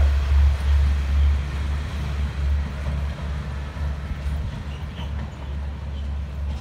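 Passenger train coaches rolling away along the track, their wheel noise on the rails fading as the end of the train recedes, over a steady low rumble.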